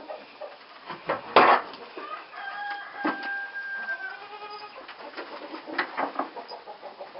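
A loud sharp knock, then a long drawn-out farm animal call lasting about two seconds, followed by a few lighter knocks and rustling in the barn.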